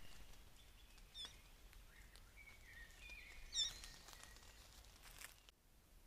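Faint bird calls: a quick run of high chirps about a second in and a louder one past three and a half seconds, with a few thin whistled notes between them.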